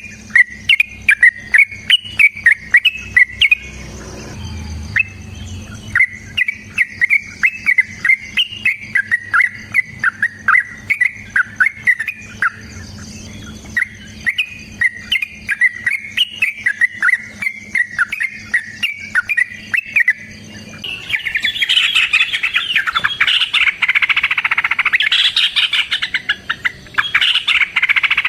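Yellow-vented bulbul (trucukan) singing: a long run of quick, bubbling chirps, repeated over and over. About three-quarters of the way through it breaks into a louder, denser chattering run.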